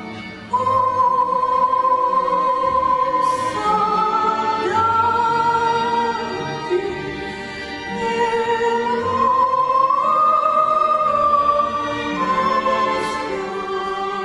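A high voice singing a slow melody in long held notes with vibrato, accompanied by an orchestra; the voice comes in about half a second in.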